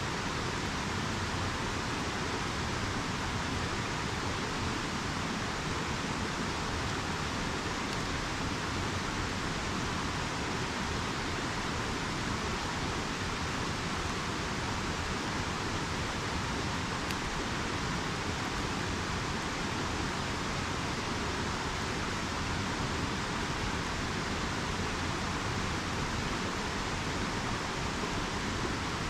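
River water rushing with a steady, even roar.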